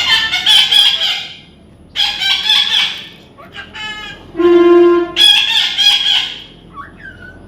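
Parrot squawking: three loud, harsh, raspy calls each lasting about a second, with a single clear, steady whistled note in between.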